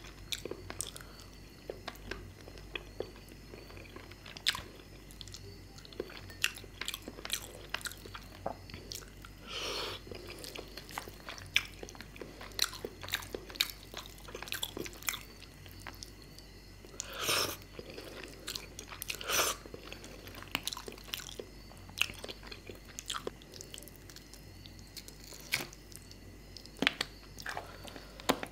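Close-miked chewing and biting of fish curry and rice: many short wet mouth clicks and smacks, with three longer, louder wet sounds at about ten, seventeen and nineteen seconds in.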